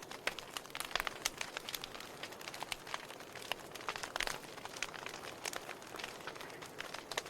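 Burning wood fire crackling, with irregular sharp pops and snaps over a soft steady hiss. A cluster of louder pops comes about four seconds in.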